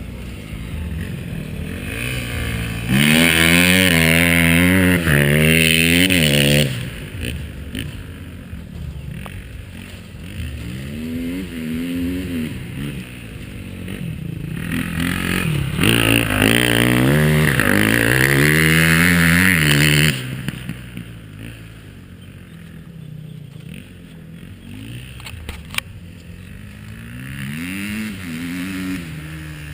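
KTM 250 XCF-W four-stroke single-cylinder enduro motorcycle revving, its engine pitch climbing and dropping again and again through the gears. It is loudest twice: from about three to six and a half seconds in, and again from about fifteen to twenty seconds in, fading lower between and afterwards.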